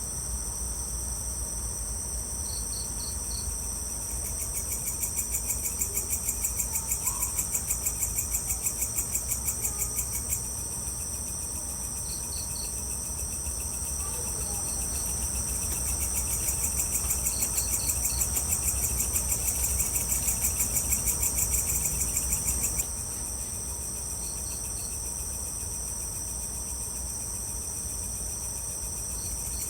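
Evening chorus of crickets and other insects: a steady high-pitched chirring made of rapid, even pulses, swelling louder for a few seconds twice. Short bursts of three or four higher chirps come every few seconds, over a low steady rumble.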